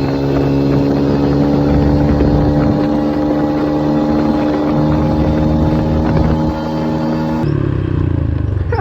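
An engine running at a steady, unchanging speed with an even drone. About seven and a half seconds in it switches abruptly to a different, lower engine sound.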